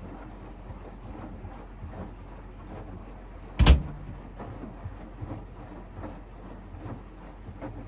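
Hoover front-loading washing machine tumbling in the heated wash, with faint irregular knocks from the load turning in the drum. A single sharp loud knock comes about three and a half seconds in.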